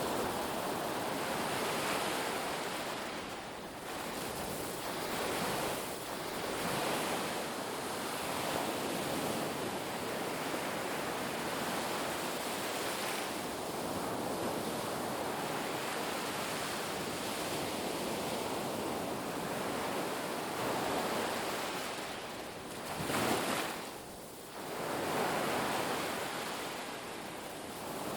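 Ocean surf on a beach: a continuous wash of breaking waves that swells and eases every few seconds, with one sharper surge near the end followed by a brief lull.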